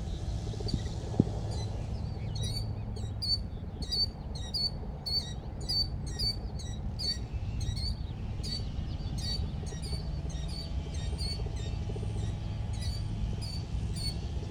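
A small bird chirping over and over, short high-pitched chirps about two a second with a brief pause past the middle, over a steady low hum.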